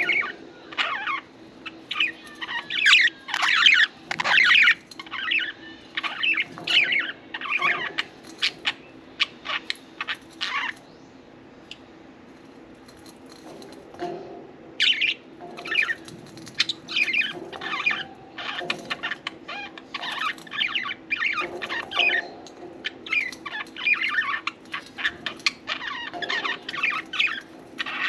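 Budgerigars chirping and chattering in quick, busy runs of short calls, with a lull of a few seconds near the middle. A faint steady hum lies underneath.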